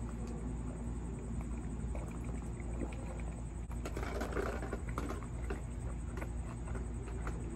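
Close-up eating sounds: a drink from a water bottle, then biting into and chewing a burrito, with small wet clicks, busiest about four seconds in. A steady low hum sits under it.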